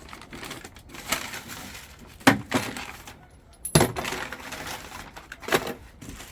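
A handful of sharp, irregular clinks and knocks of hard objects being handled and set down, with the loudest about two seconds in and near the middle.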